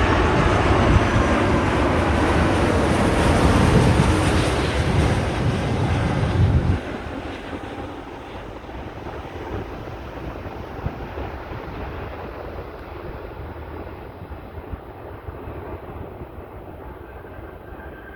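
Garuda Indonesia Airbus A330 jet engines during its landing: loud jet noise with a heavy low rumble that drops off abruptly about seven seconds in, leaving a quieter jet hiss that slowly fades.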